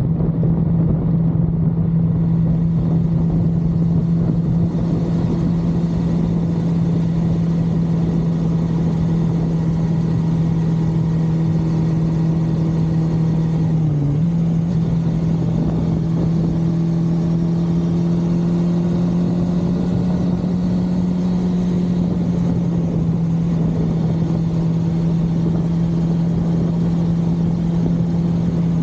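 1982 Suzuki GS550L's inline-four engine running at a steady cruising pitch, with a brief dip and recovery in pitch about halfway through.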